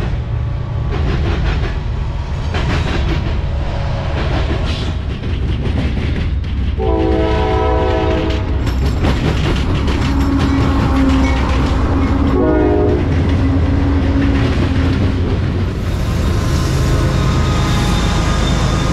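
CSX freight train passing close by, the diesel locomotives' engines and wheels making a steady heavy rumble. The lead locomotive's air horn sounds a long chord blast about seven seconds in and a short one about five seconds later. The rumble grows louder near the end as the locomotive goes by.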